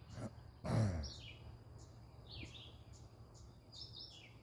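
Birds chirping outdoors, a run of short falling chirps repeating every half second or so, over a faint steady high whine and a low hum. About a second in there is a brief, louder low sound that falls in pitch.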